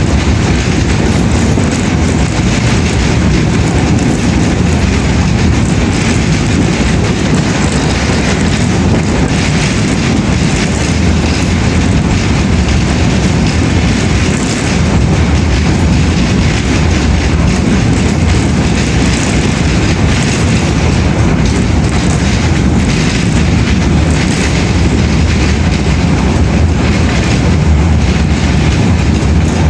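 Steady, loud rumbling noise of a moving vehicle, heaviest in the low end and unbroken throughout.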